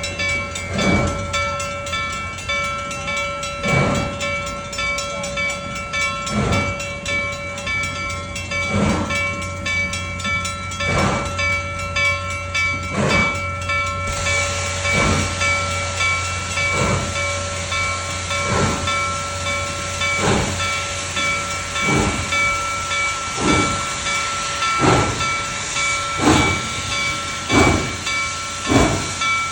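Steam locomotive chuffing as it pulls away, its exhaust beats slowly quickening, over a steady hiss of steam that grows louder about halfway through.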